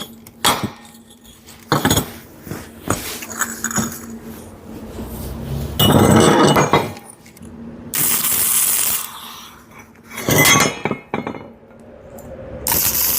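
Steel parts clinking and knocking as axe blades are worked on at a welding bench. Several short stretches of loud hissing noise come in between.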